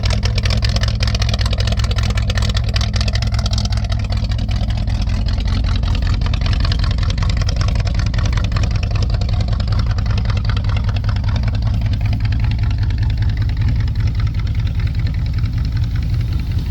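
A '65 truck's engine idling steadily, warming up after a cold start.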